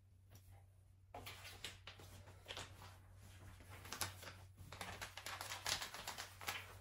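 Rapid, irregular light clicks and rustles from small objects being handled, starting about a second in.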